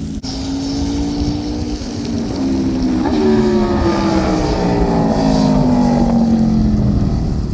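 Aprilia RSV4 1100 Factory's V4 engine through a titanium Racefit Growler slip-on exhaust, a near straight-pipe sound, running loud during a flyby. About three seconds in the note jumps up in pitch and grows louder, then falls steadily.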